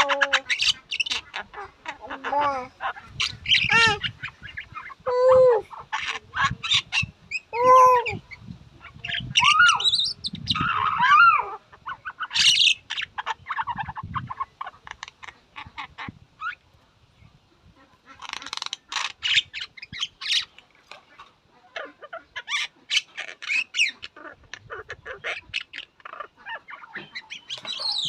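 Myna (shalik) calling: a varied run of harsh croaks, arching whistled notes and rapid clicking chatter, with a short lull past the middle.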